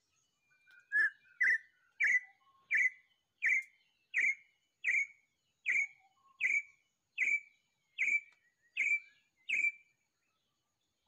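A bird calling a steady run of about thirteen short whistled notes, evenly spaced at a little under one and a half notes a second, starting about a second in and stopping near the end.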